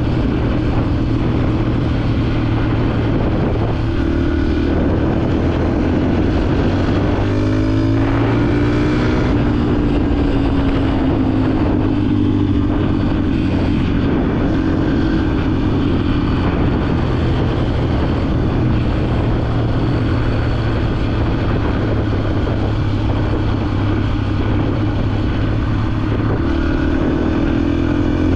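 Dirt bike engine running under way at a steady pace. The engine note rises about eight seconds in, settles back, and climbs again near the end as the throttle opens.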